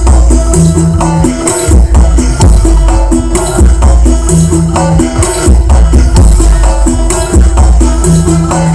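Loud dance music with heavy, booming bass and busy, fast percussion, played through a large carnival 'horeg' sound system (Blizzard Audio).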